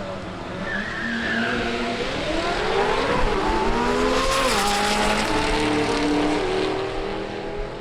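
Race car accelerating hard down a drag strip: the engine note climbs, drops with a gear change about three seconds in, climbs again and drops about four and a half seconds in, then settles lower as the car moves away, over a steady rush of tyre and wind noise.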